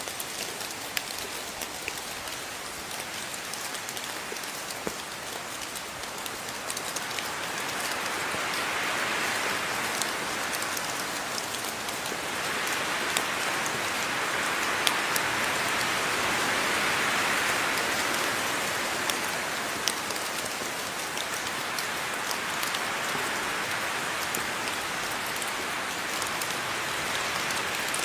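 Steady rain falling, an even hiss dotted with many small drop ticks. It swells louder twice in the middle, the second swell longer.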